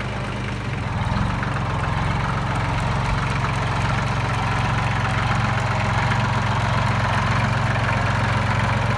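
Tractor engine running steadily at idle or low revs, with a constant low hum.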